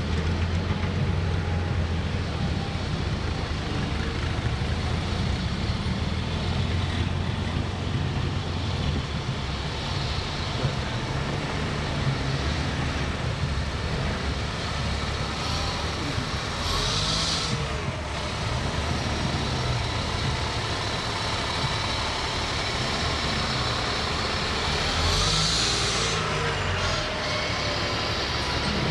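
Fire trucks' diesel engines running as the apparatus rolls slowly past, a steady low rumble, with two short hissing bursts about two-thirds of the way through and near the end.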